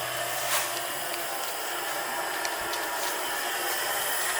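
Freshly lit fire in a wood-burning fireplace, its paper kindling just catching: a steady hiss with a few faint, scattered crackles.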